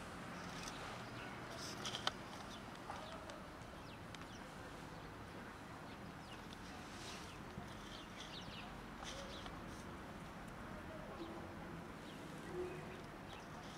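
Faint outdoor background with scattered bird chirps and a sharp click about two seconds in.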